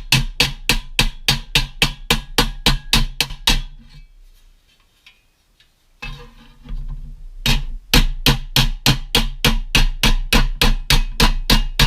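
Rapid, evenly spaced knocking, about four strikes a second over a low hum, dying away for a couple of seconds midway and then starting again.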